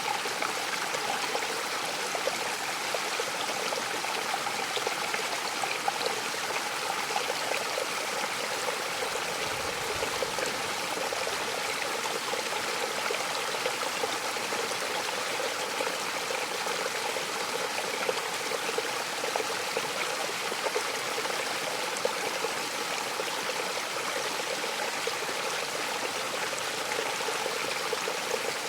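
Mountain waterfall rushing steadily: a constant, even wash of falling and splashing water with no breaks.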